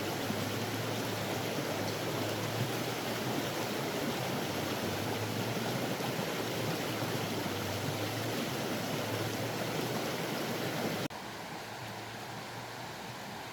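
Steady rush of running water. About eleven seconds in it cuts off sharply to a quieter steady hiss.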